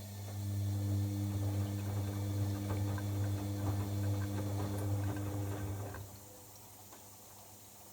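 Bosch Avantixx washing machine's pump running with a steady low hum and gurgling water, both stopping about six seconds in.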